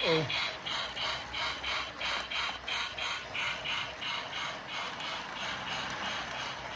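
Lionel O scale Thomas & Friends toy train running on its track: an even clicking of wheels and gearing, about four clicks a second, with a mechanical whir underneath, growing a little fainter near the end.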